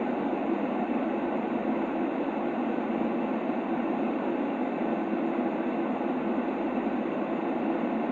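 Steady sleep noise for babies: an even, unbroken rushing hush, deep rather than hissy, with most of its weight in the low middle range and no high hiss. It does not change.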